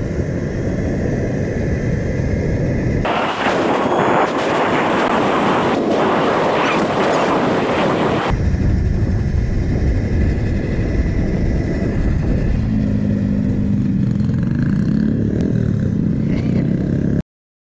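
Dirt bikes riding along a street, with wind rushing over the microphone and an engine tone heard later on. It changes abruptly twice, to a harsh hiss for several seconds and then back, and cuts off suddenly near the end.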